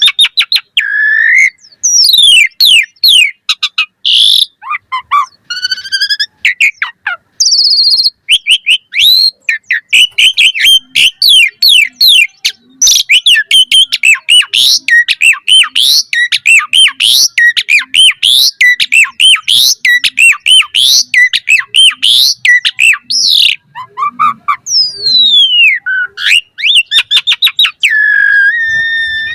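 Asian pied starling (jalak suren) singing a loud, fast, varied song: a rapid, almost unbroken stream of sweeping whistles and chattering notes, ending with a long held whistle.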